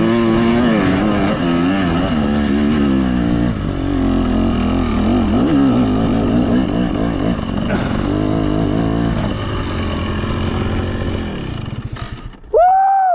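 Two-stroke KTM 300 XC TBI dirt bike engine revving up and down under load on a steep hill climb, then dying away about eleven seconds in. Near the end comes a short, loud whooping cry that rises and falls in pitch.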